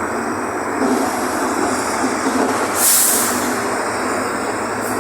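Mercedes-Benz OF-1519 bus's diesel engine running steadily while the bus is under way, heard from inside the cabin, with a short loud hiss of air about three seconds in.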